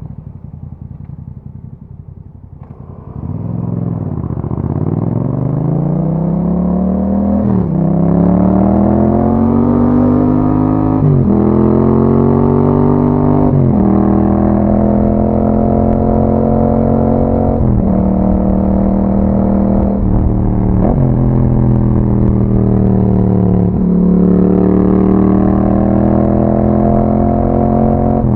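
Yamaha MT-07's parallel-twin engine breathing through an Akrapovic exhaust, heard on board. It runs low for a few seconds, then pulls away hard, its note rising and falling back with three upshifts in quick succession. It then settles to a steady run, broken by a few brief dips in throttle.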